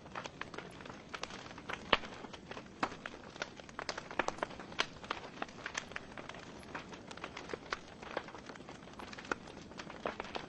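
Wood fire burning in a fireplace: irregular crackles and sharp pops over a soft steady hiss, with one louder pop about two seconds in.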